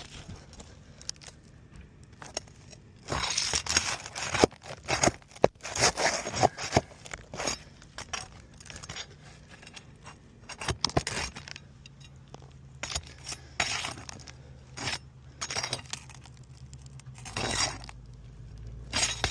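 Irregular scraping, crackling and metallic clinking of hand tools working brittle roof shingles loose, busiest a few seconds in and again near the end.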